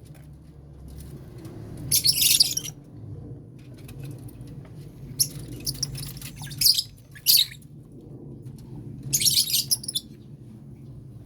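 A flock of lovebirds chattering in about four shrill bursts of rapid chirping a few seconds apart, over a steady low hum.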